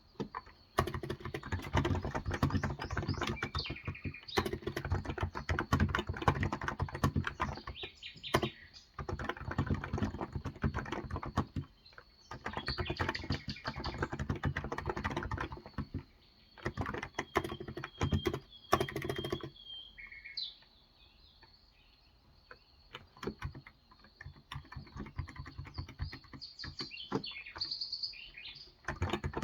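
Typing in bursts on a Cox Endeavor 35g electro-capacitive tenkeyless keyboard, with a pause of a few seconds about two-thirds of the way through. Birds chirp in the background, heard most plainly between the bursts of typing.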